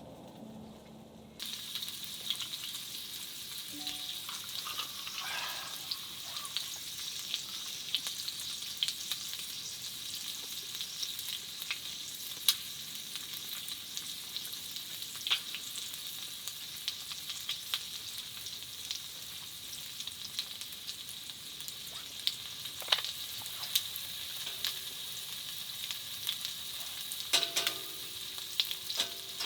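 Food sizzling in a hot pan: a steady frying hiss, broken by scattered pops and crackles. It starts abruptly about a second and a half in.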